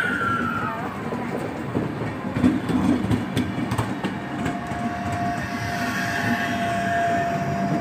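Passenger train coaches rolling past close by: a steady rumble of wheels on track, with sharp clicks as the wheels cross rail joints. A thin, steady whine joins about halfway through.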